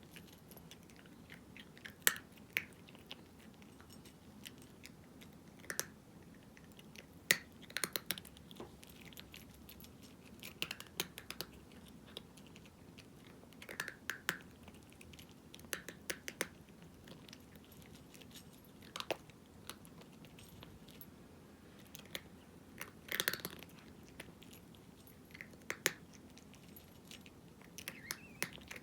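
A cat chewing dry kibble: irregular crisp crunches, some in quick clusters, with short pauses between mouthfuls.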